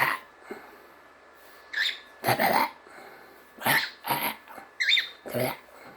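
A cockatiel hissing and giving short harsh calls, about seven brief bursts, a couple with a quick chirp in them: a defensive, 'little monster' display.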